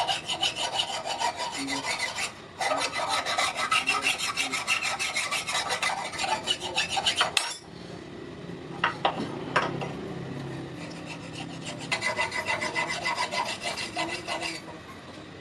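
Steel being filed by hand: fast, dense rasping strokes. They break off briefly about two and a half seconds in, give way to a quieter stretch with two sharp clicks in the middle, then start again.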